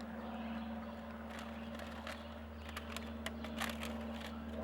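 Faint scattered crackles and clicks of puppies chewing and pawing a thin plastic planter, over a steady low hum.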